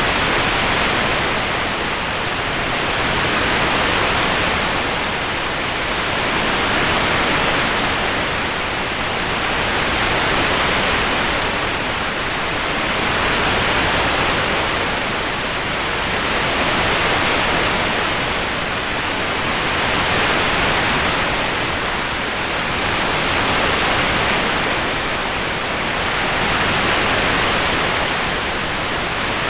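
Steady rain-sound backing: an even hiss of rain that swells and eases gently about every three seconds.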